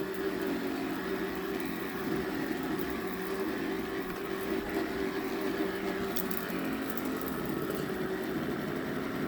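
Electric floor-cleaning machine running steadily on a carpet: a constant motor hum with a strong steady tone, plus a few faint clicks of picked-up grit.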